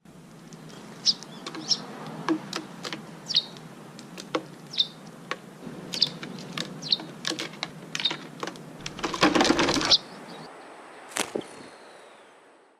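A small bird chirping repeatedly in short, sharp calls, mixed with many light clicks, and a second-long burst of rustling about nine seconds in.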